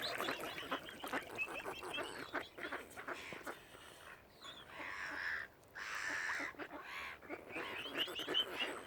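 A flock of waterfowl calling, many short overlapping honks and quacks. The calls thin out about halfway through, where a soft rushing noise is heard, and then pick up again near the end.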